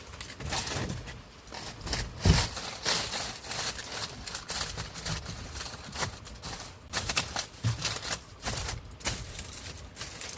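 Irregular clicks, knocks and rustling of hands working with building material, with one louder knock about two seconds in.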